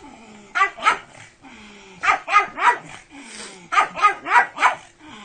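Pug barking in short, quick bursts: two barks, then three, then four in a row.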